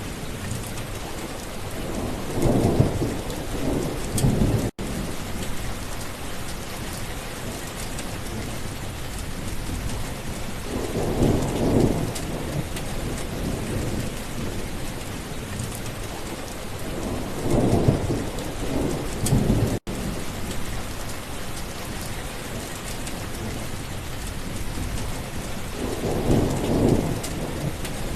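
Steady heavy rain with rolls of thunder rumbling up about four times. The sound drops out for an instant twice.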